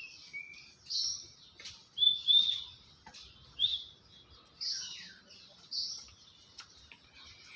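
Birds chirping: short high chirps and downward-sliding notes, about one a second, the loudest about two seconds in.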